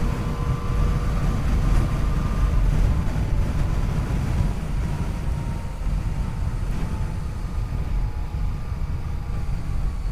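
Yamaha FJ-09's three-cylinder engine running under way, its pitch slowly falling, beneath heavy wind rumble on the microphone.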